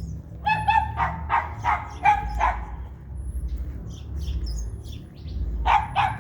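An animal calling: a quick run of about five short, high-pitched yelps, then two more near the end, over a steady low rumble.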